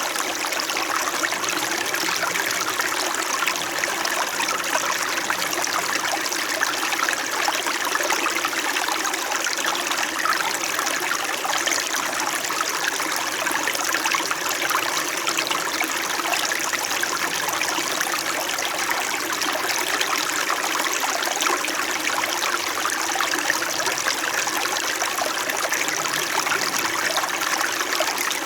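Small stream flowing and burbling steadily over rocks.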